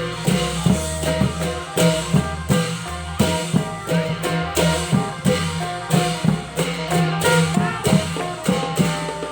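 Thai klong yao (long drum) ensemble playing a steady, quick rhythm of drum strokes over held low tones and ringing metal notes.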